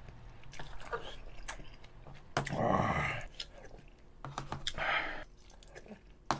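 Close-miked chewing and eating of spicy gukbap, a Korean rice soup, from a spoon, with two louder mouthfuls, about two and a half and five seconds in, and a few light clicks.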